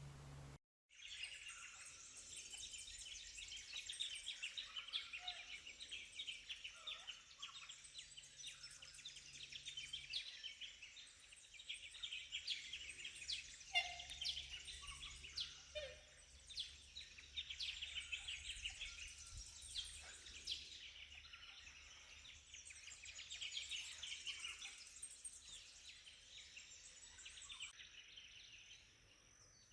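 A chorus of birds singing and calling, many short chirps and trills overlapping at a low level.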